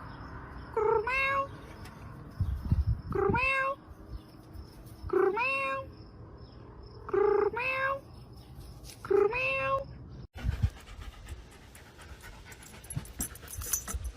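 Domestic cat meowing five times, about every two seconds, each meow rising in pitch and then held briefly. After about ten seconds the meowing stops and scattered clicks and rustling follow.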